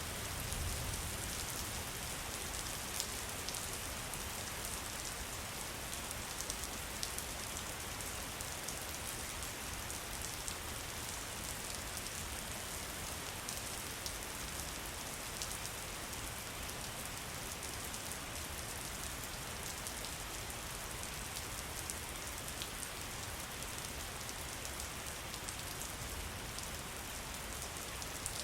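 Steady rain falling: a dense, even hiss with many fine drop ticks through it.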